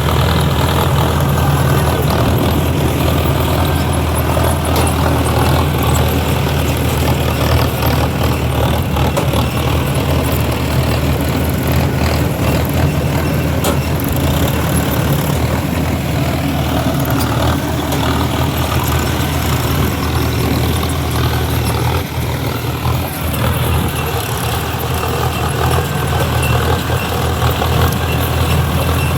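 Mahindra tractor's diesel engine running steadily, with a deep, even throb.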